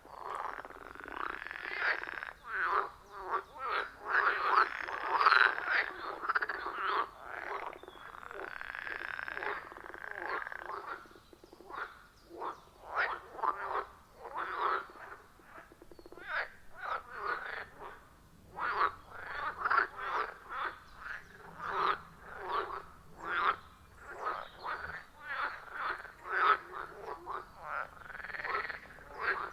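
Chorus of frogs at a pond, many short calls repeating and overlapping. The calls are dense and loudest in the first several seconds, then come more spaced out.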